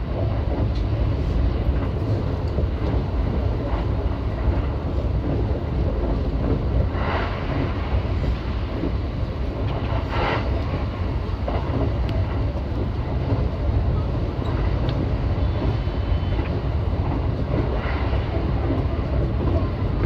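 Running noise of a JR East E353 series electric limited express heard inside a passenger car: a steady low rumble of wheels on rails, with two brief louder rushes about 7 and 10 seconds in.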